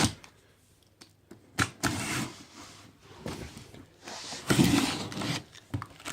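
Cardboard box being opened by hand: a few sharp clicks, then scraping and tearing of packing tape and cardboard in two bursts, around two seconds in and again about four to five seconds in.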